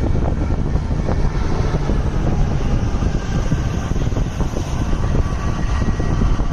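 Loud, steady, deep rumbling roar of strong wind buffeting the microphone.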